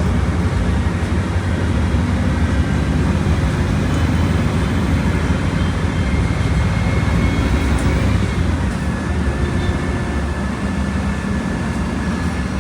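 Volkswagen Volksbus 17.230 Euro 6 bus's diesel engine running steadily, easing off slightly about eight seconds in.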